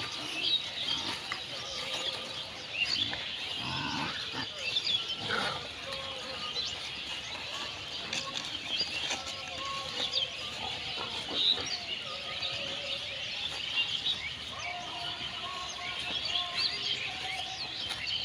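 Many small birds chirping and twittering continuously, with a few short lower sounds about four and five seconds in.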